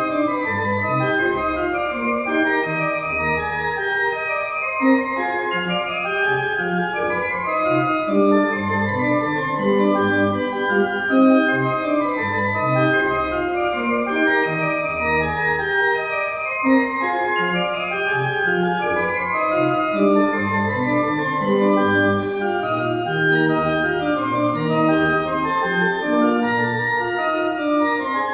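Organ music: a continuous instrumental piece of many sustained, overlapping notes changing steadily.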